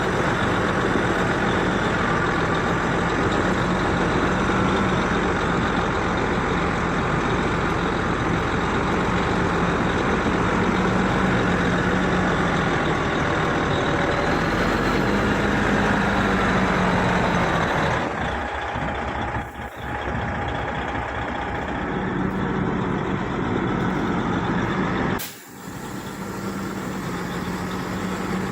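Heavy diesel earth-moving machinery running steadily with a constant low engine drone. The sound thins briefly about two-thirds of the way in and cuts out for a moment near the end.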